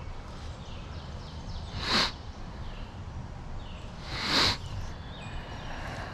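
Outdoor creek ambience: a steady low rush with faint, repeated short falling bird chirps. Two short loud whooshes stand out, about two seconds in and again near four and a half seconds.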